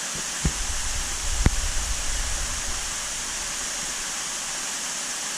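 Steady rushing hiss of water pouring into a large aquarium. Two brief knocks about half a second and a second and a half in, with a low rumble over the first few seconds.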